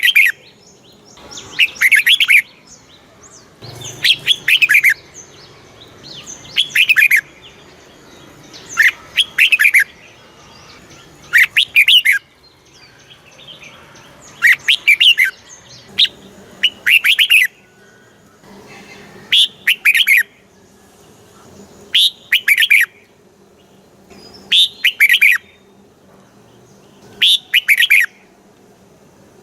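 Red-whiskered bulbul singing its short, loud, chirpy song phrase over and over, about once every two and a half seconds, each phrase a quick run of warbled notes. This is a stimulating song of the kind played to caged bulbuls to rouse them and teach young birds.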